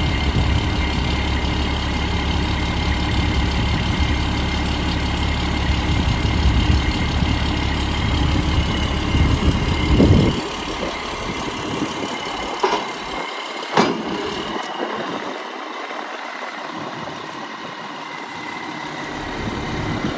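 2003 Sterling RT9500 hook truck's Caterpillar turbo diesel idling with a steady low rumble. The rumble drops away sharply about halfway through, leaving a fainter hum and two sharp clicks.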